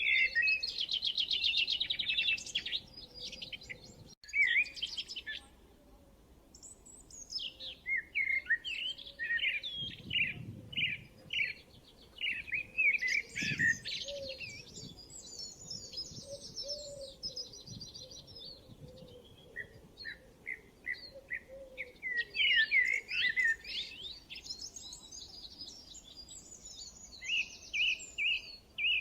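Songbirds chirping and singing: quick high chirps and fast trills in bursts, with short lulls between them.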